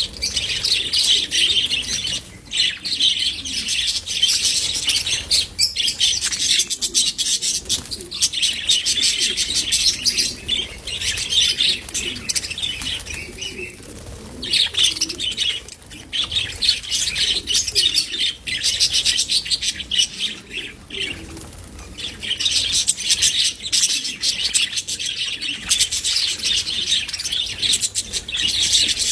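A group of budgerigars chattering and twittering continuously, a dense stream of high chirps with a few brief lulls.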